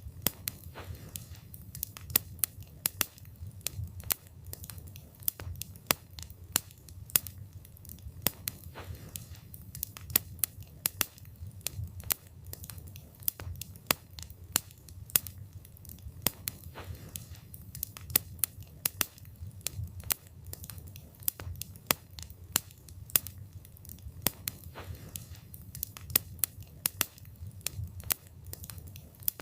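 Wood fire burning, with frequent sharp, irregular crackles and pops of the burning wood over a low steady rumble of the flames.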